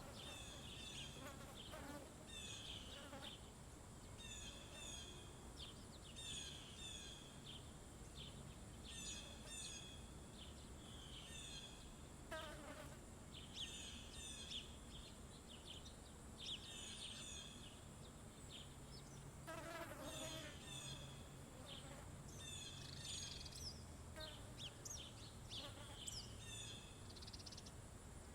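Small birds chirping and twittering over and over at a feeder, with a steady high insect drone and a low buzzing hum underneath. Twice, about twelve and twenty seconds in, a longer call falls in pitch.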